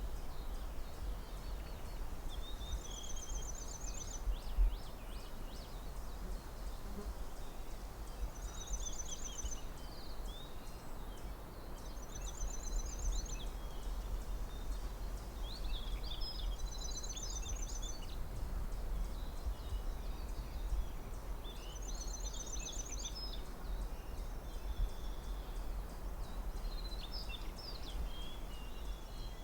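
Forest ambience with songbirds: a short, high trill repeats every three to six seconds, mixed with scattered chirps and whistles, over a steady low rumble.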